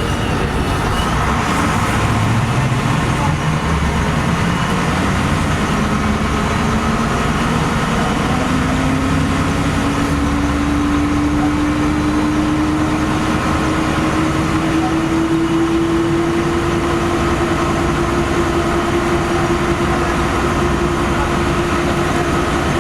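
LiAZ-5256 city bus running, heard from inside: steady engine and road noise, with a whine that rises in pitch over the first several seconds and then holds steady at one pitch.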